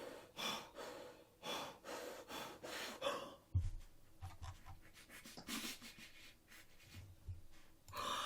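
A person panting hard, about two quick breaths a second for the first three seconds, then softer breathing with a few dull low thumps.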